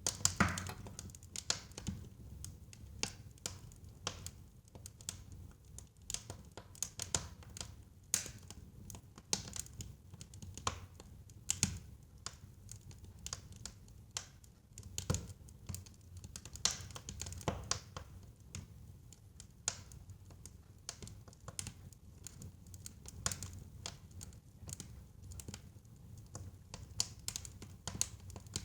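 Wood fire burning in a fireplace: irregular crackles and sharp pops, some louder than others, over a low steady rumble of the flames.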